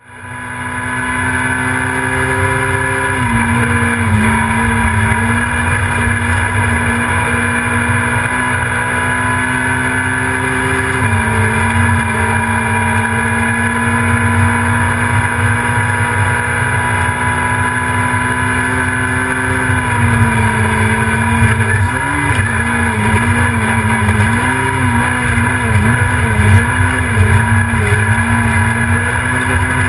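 Rally car engine running hard, heard from inside the cabin with a heavy low rumble. Its pitch steps down about 3 and 11 seconds in, and from about 20 seconds on the revs waver up and down.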